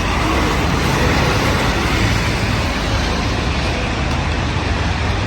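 Street traffic: vehicles passing on a city street, a steady loud rush of engine and road noise with a low rumble underneath.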